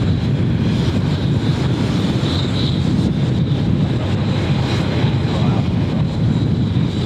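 Wind buffeting the microphone in a steady low rumble, with a faint, steady high whine behind it.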